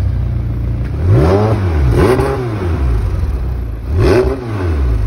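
McLaren 720S twin-turbo V8 idling and blipped three times while parked; each rev rises and falls back in pitch.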